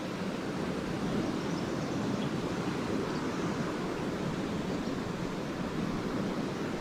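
Lake waves washing steadily onto a sandy beach, a continuous low surf wash, with a few faint high chirps here and there.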